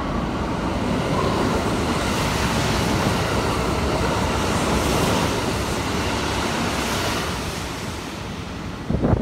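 Kintetsu 22000 series limited express electric train passing through a station at speed. A rushing noise builds as the cars go by, then fades as the train leaves.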